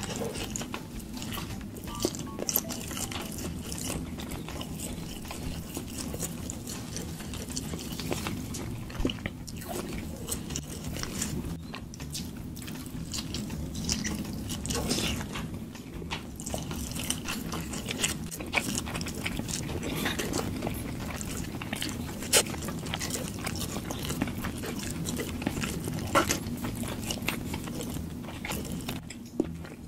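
Close-miked eating sounds: chicken meat being bitten and chewed, with irregular wet clicks and small crunches throughout.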